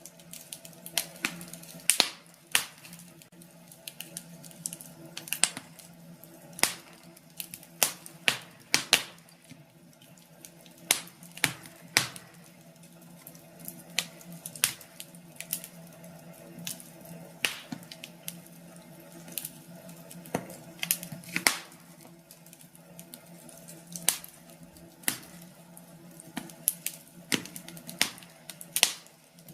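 Wood fire crackling in a fireplace: irregular sharp pops and snaps, sometimes several in quick succession, over a low steady hum.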